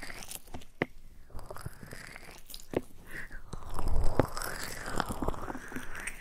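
Close-miked ASMR trigger sounds on a sensitive microphone: irregular crackling and sharp clicks with soft swishing glides, busiest about four seconds in.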